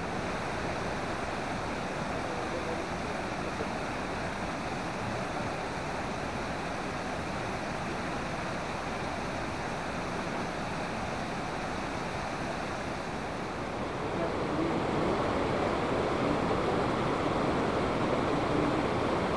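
Waterfall's steady rush of falling water, getting louder about two-thirds of the way through.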